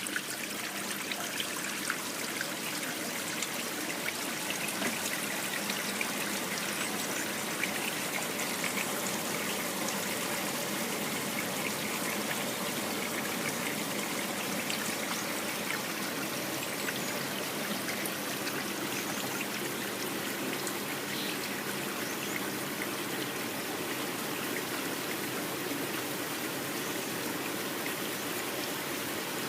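Water running steadily into and splashing in the tub of a 12 kg twin-tub washing machine, a continuous trickling stream.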